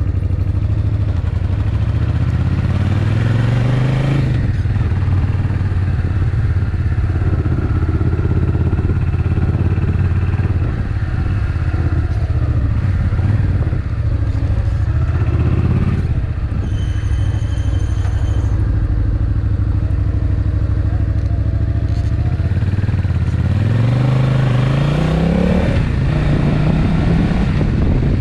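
Suzuki Intruder VS800's 45-degree V-twin engine running while riding: it accelerates with rising pitch a couple of seconds in, holds a steady cruise, then accelerates again with rising pitch near the end.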